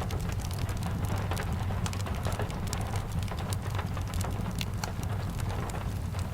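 Rain-and-fireplace ambience: steady rain over a low, even rumble, with many sharp ticks and crackles scattered throughout.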